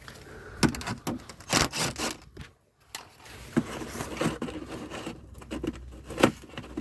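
Irregular clicks, knocks and scraping of hand work in a car's rear wheel well: a small tool working a screw and the plastic inner fender liner being handled. There is a brief gap about two and a half seconds in.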